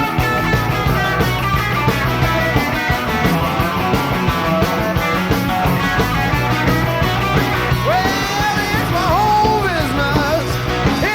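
Live rock band playing: electric guitars, bass and drums at full volume. About eight seconds in, a sliding, bending lead line comes in over the band.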